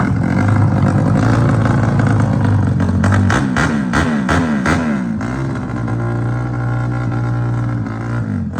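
Motorcycle engines revving hard, their pitch repeatedly climbing and dropping back, with a steadier held engine note for a few seconds in the second half.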